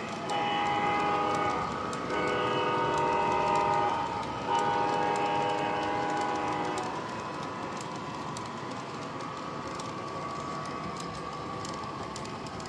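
Model ES44AC diesel locomotive's onboard sound system sounding three long air-horn blasts, one after another. The horn is followed by the steady diesel running sound, with light clicking of the wheels over the track.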